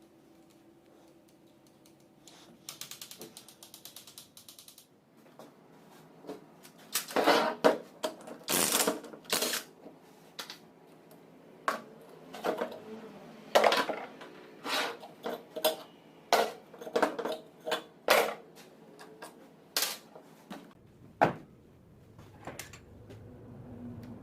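Metal tools and alternator parts being handled: a quick run of ratcheting clicks about three seconds in, then irregular clinks and knocks of metal on metal.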